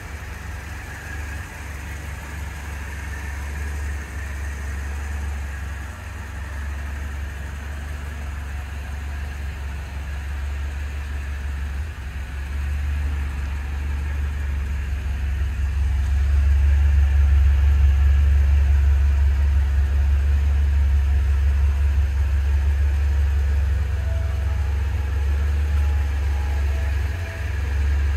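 Fiat Coupe 16V's 16-valve four-cylinder engine idling steadily, a low rumble that grows louder for a while past the middle.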